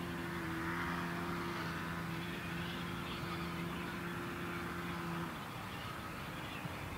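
Distant train approaching on the line, with a steady low drone that stops about five seconds in.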